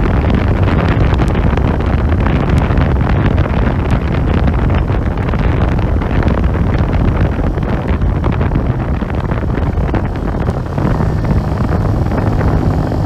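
Hyosung GV125 S Aquila's V-twin running through an aftermarket Sound Control exhaust while riding, with heavy wind noise on the microphone. About ten and a half seconds in the level dips briefly, then a steadier engine note comes through.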